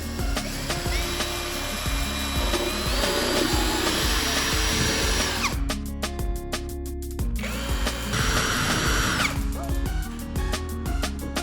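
Background music with a small electric motor whining over it twice. It runs about four and a half seconds the first time, stepping up in pitch as it speeds up, then a shorter burst follows near the end.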